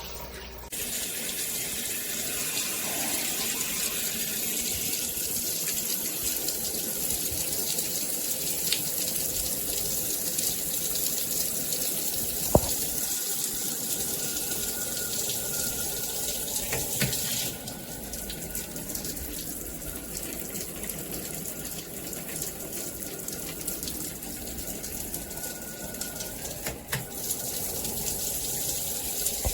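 Shower water spraying steadily from an overhead rain shower head, with a few sharp clicks, and a slight drop in level about two-thirds of the way through.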